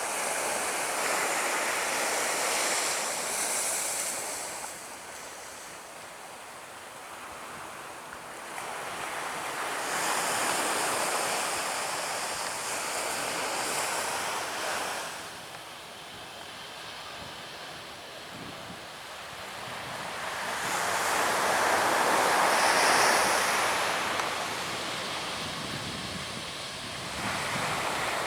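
Surf breaking on a beach: about four waves rush in and wash away, each swelling and fading over a few seconds, with some wind on the microphone.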